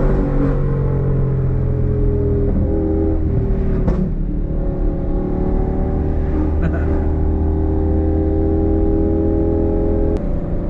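Lamborghini Gallardo's V10 engine running as the car drives. Its pitch falls over the first couple of seconds, then holds steady at cruise. A short sharp click and a dip in level come near the end.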